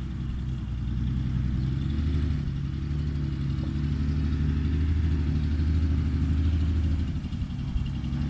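Six-wheel dump truck's diesel engine running steadily, growing louder about a second in and loudest for a few seconds in the middle before easing off briefly near the end.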